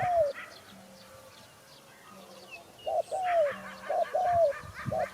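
Spotted dove cooing: a low note right at the start, then a three-note phrase from about three seconds in, the last note sliding down in pitch. Smaller birds chirp higher alongside the coos.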